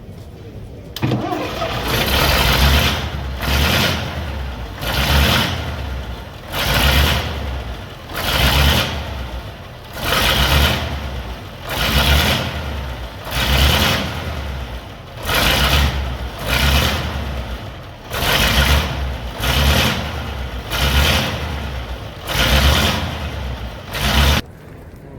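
An old engine running with a loud, uneven exhaust beat, a heavy puff about every one to two seconds. It starts about a second in and cuts off suddenly near the end.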